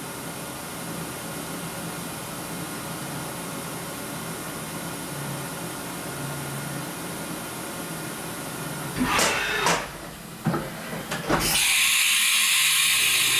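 Haas milling machine running steadily while a single knurl rolls against a brass bar turned in an HA5C indexer. About nine seconds in come a few loud knocks and bursts, then a loud steady hiss through the last two seconds.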